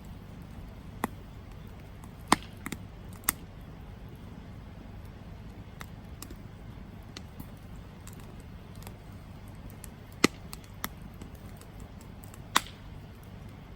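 Wood campfire burning with a low steady rumble, broken by about seven sharp pops and crackles: a cluster a couple of seconds in and more around ten seconds in.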